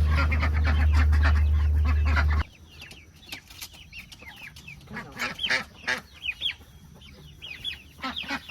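A loud low steady hum that cuts off suddenly about two and a half seconds in, then chickens clucking and calling in short, repeated falling notes.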